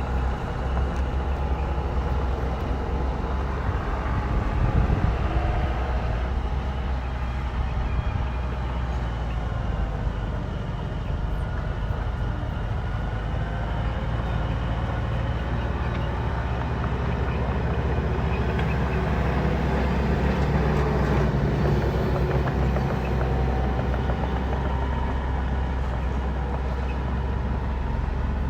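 Heavy diesel engine of a bulldozer working steadily, its pitch slowly rising and falling as the load changes.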